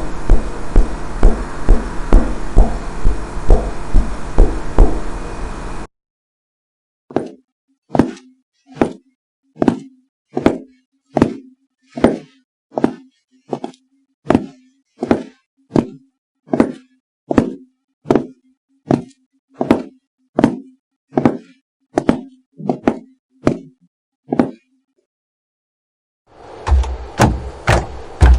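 Slow, even footsteps on a wooden floor, about twenty heel-and-toe knocks a little under a second apart, with a faint steady hum between them. Before and after the steps comes a louder, denser passage with a heavy bass and a quick beat.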